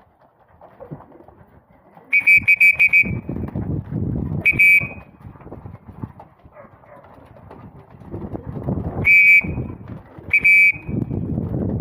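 Shrill whistle blasts in four bursts, the first a rapid trill and the rest short single blasts, over low rustling and flapping from pigeons.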